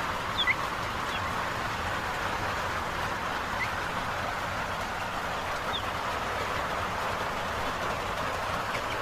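Heavy rain falling steadily, a dense, even hiss. A few short high peeps from chickens are scattered through it.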